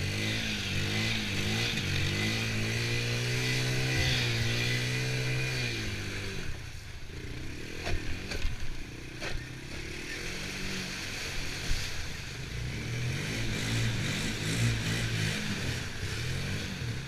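Honda TRX90 ATV's small four-stroke single-cylinder engine running under way. It holds a steady speed for about six seconds, then drops off and rises and falls, with a few sharp knocks.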